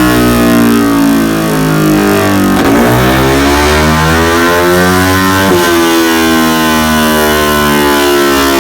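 Motorcycle engine on a dyno run through an aftermarket muffler, revving up under load. Its pitch climbs, drops sharply about two and a half seconds in and again about five and a half seconds in as it shifts up a gear, then climbs again.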